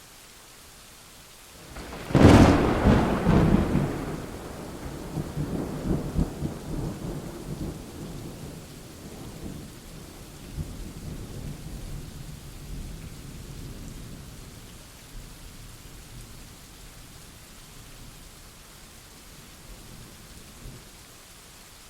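A thunderclap about two seconds in: a sudden sharp crack, then rolling low rumbles that fade away over the next fifteen seconds or so. A steady hiss of rain runs underneath.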